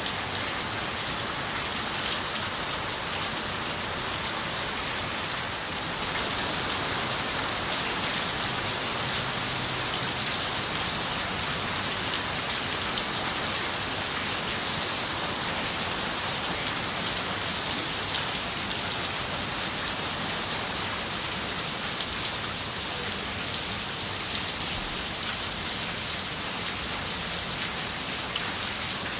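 Steady rain falling and pattering on a window, an even hiss with scattered individual drop ticks, a little heavier from about six seconds in.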